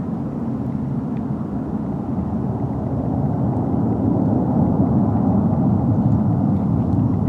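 Rolls-Royce Trent 772 turbofan engines of an Airbus A330-300 at takeoff thrust during the initial climb just after gear retraction: a deep, steady jet noise that slowly grows louder.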